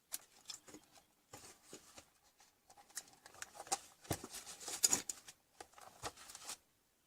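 Irregular clicks, taps and scraping of hard objects being handled, thickest and loudest about four to five seconds in, stopping suddenly near the end.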